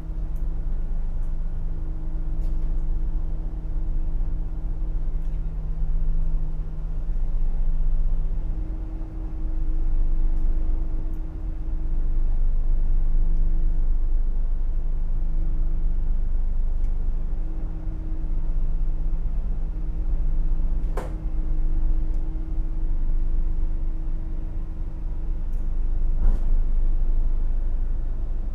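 Ship's diesel engines running steadily: a low rumble with a constant hum, as a tug works a tanker out of harbour. Two brief clicks sound in the second half.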